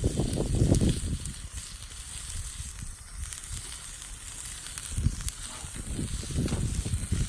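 Wood fire crackling in a fire pit, with low rumbling on the microphone in the first second and again near the end.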